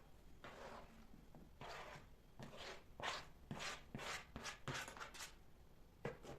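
Kitchen handling sounds: a string of short rustles and scrapes, several with a light knock, about one or two a second.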